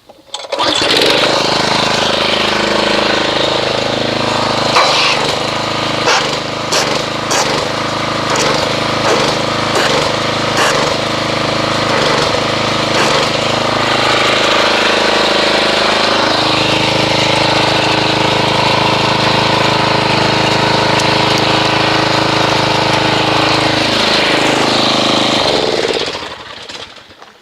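Pressure washer running, its jet blasting into a bucket of car-wash soap solution to whip up foam. It starts about a second in, its pitch shifts partway through, and it stops just before the end.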